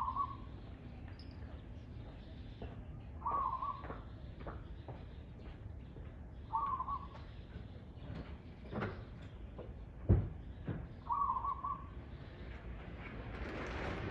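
A bird calling a short note about every three seconds over a low background hum, with one dull thump about ten seconds in.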